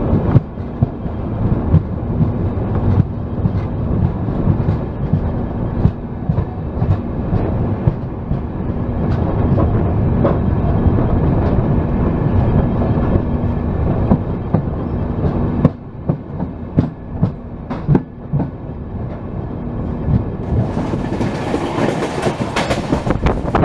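Passenger express train running at speed on its rails, a steady rumble with irregular clacks of wheels over rail joints. About two-thirds of the way through the rumble drops and a few sharp, separate clacks stand out. Near the end a loud hiss of rushing air comes in.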